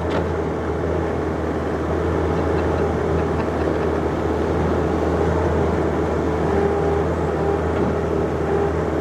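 John Deere 50ZTS mini excavator's diesel engine running steadily under load, with a steady low hum.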